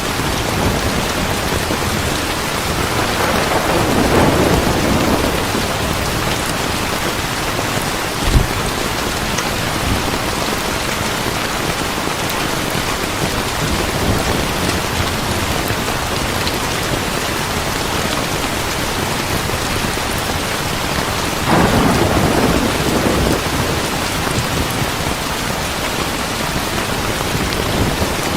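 Heavy rain falling steadily, with two rolls of thunder, one about four seconds in and another near the end, and a single sharp low thump about eight seconds in.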